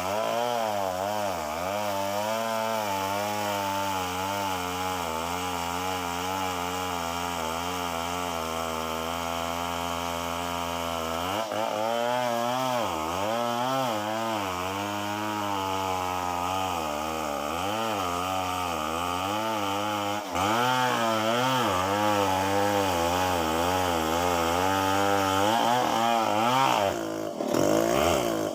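Chainsaw running and cutting wood, its engine pitch wavering up and down under load throughout; it gets louder about two-thirds of the way through.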